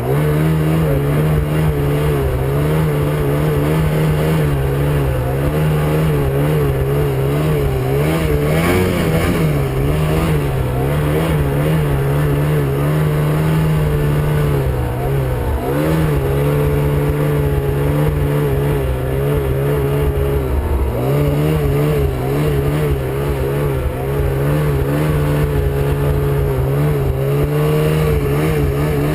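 Snowmobile engine running under throttle while riding through deep powder, its pitch wavering up and down as the throttle is worked. It eases off briefly about halfway through and again a few seconds later.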